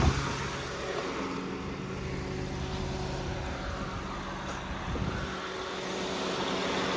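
First-generation Honda Pilot's 3.5-litre V6 idling steadily, run just after an oil change to circulate the new oil through the filter.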